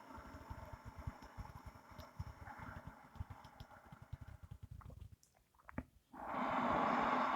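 A person breathing audibly through the nose during qigong "fire abdominal breathing". There is a faint, low, rustling breath at first, then a much louder, steady breath hiss starts about six seconds in.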